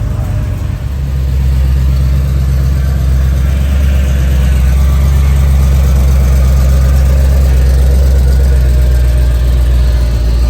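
Twin-turbo LS3 V8 in a 1948 DeSoto running loud and steady. Its sound is unsettled at first and evens out about a second in.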